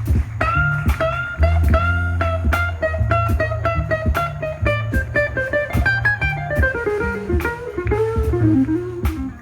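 Blues band playing a guitar solo: the lead guitar holds long, bent notes with vibrato, then falls away in a descending run near the end, over a walking bass line and drums.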